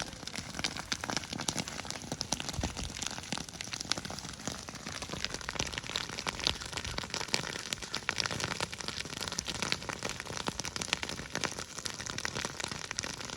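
Grass fire burning through dry and green grass, a dense steady crackle with sharper pops scattered through it.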